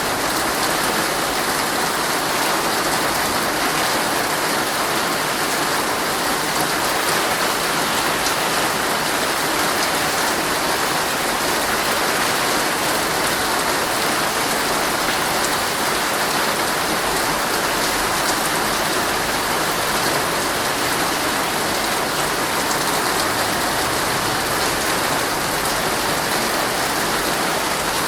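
Heavy rain falling steadily on a tent's fabric, heard from inside the tent as a dense, even patter.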